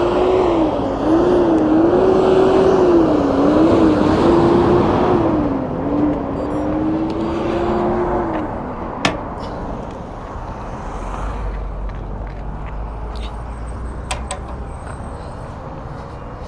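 Juiced Scrambler e-bike's hub motor whining as the bike pulls away from a stop, its pitch wavering up and down with the throttle for about eight seconds before it stops. There is heavy wind rush over the microphone while it accelerates, and a sharp click shortly after the whine ends.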